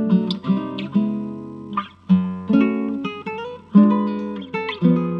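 Acoustic guitar playing, with notes and chords plucked one after another, each struck clearly and left to ring out.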